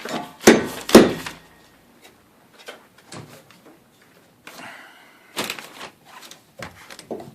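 Two loud hammer blows about half a second apart, driving a bolt through a garage door spring fitting to free the spring, followed by lighter metal knocks and clatter.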